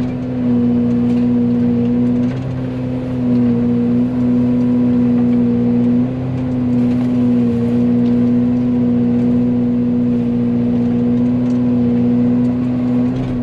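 Excavator diesel engine held at high revs, driving a Fecon forestry mulcher head through its hydraulics, running at a steady pitch. The pitch and level dip briefly a few times as the spinning drum takes load.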